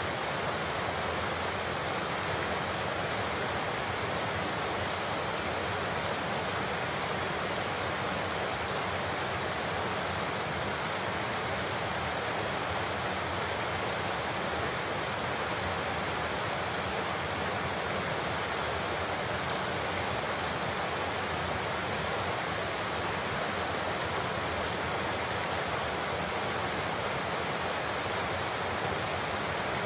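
Large waterfall: a steady, even rush of falling water with no change in level.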